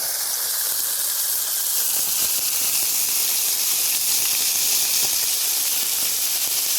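Pork sausages sizzling in a grill pan over a campfire: a loud, steady hiss of frying fat.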